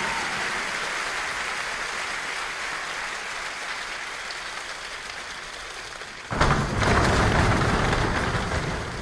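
A crowd of performers making a rainstorm by hand: a hiss of rain-like patter that slowly thins out, then about six seconds in a sudden loud downpour-and-thunder surge of hand slapping and jumping on the floor, fading near the end.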